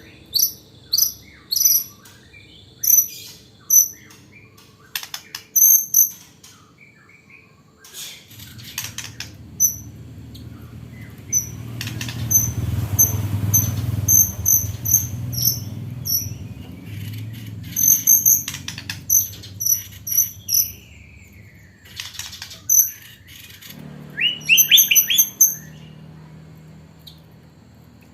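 A white-rumped shama (murai batu) sings a song trained with mimicked blue-crowned hanging parrot (serindit) calls. It comes in runs of short, sharp, high chirps and whistles, with a falling whistle past the middle and a quick run of rising notes near the end. A low rumble sits under the song in the middle stretch.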